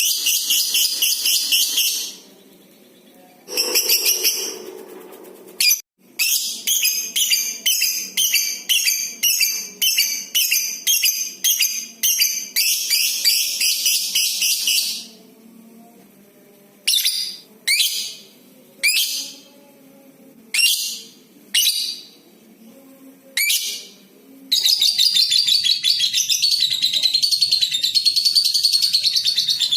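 Lovebird calling in shrill bursts of rapid chattering, then a run of short single chirps. In the last few seconds it gives one long unbroken trill, the long 'ngekek' call.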